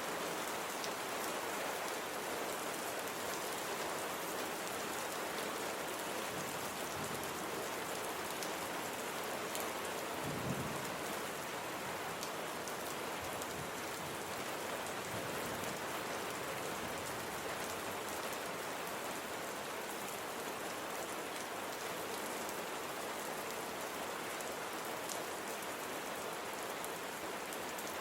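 Steady rain falling on surfaces, an even hiss of many drops. About a third of the way through there is a brief low rumble.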